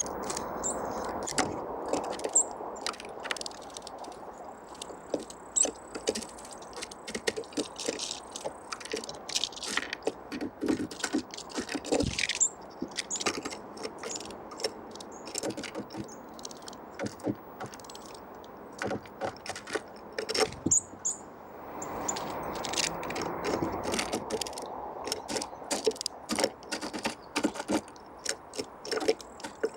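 Small forest birds (tits and nuthatches) pecking and hammering at seeds, a rapid, irregular run of sharp taps and cracks, with thin high calls now and then.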